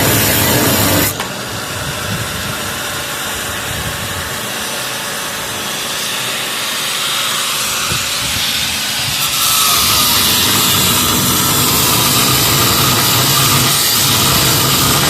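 A power tool running steadily with a loud hissing noise. The sound changes abruptly about a second in and again about nine seconds in.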